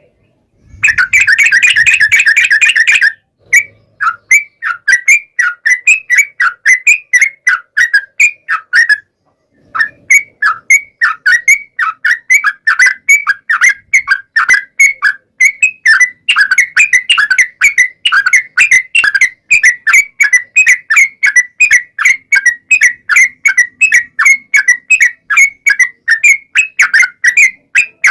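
Yellow-vented bulbul (trucukan) singing: a dense, harsh burst of calling about a second in, then a long, fast run of bright, falling chirps, about three to four a second, with one short break around nine seconds.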